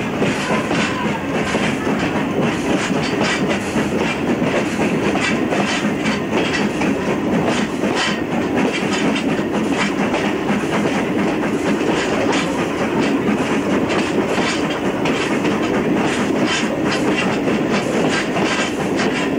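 Train running along jointed track, heard from an open carriage window: wheels clicking over the rail joints over a steady rushing noise.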